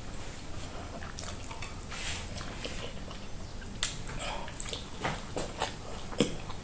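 Close-miked eating sounds: chewing and wet mouth sounds of someone eating creamy pasta, with a few short, sharp clicks scattered through the second half.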